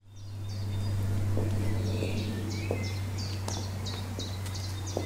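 Small bird singing, repeating short high chirps about twice a second, over a steady low hum. A few faint footsteps on stone paving.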